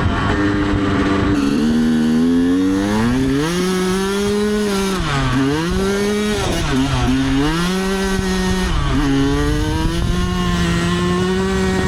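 Dirt bike engine revving up and pulling away, its pitch climbing over the first few seconds. The revs drop and rise twice around the middle, then hold at a steady pitch.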